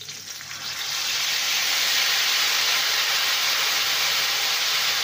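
A masala-coated chicken breast piece sizzling in hot oil in a wok as it goes in. The frying sizzle swells over the first second, then holds steady and loud.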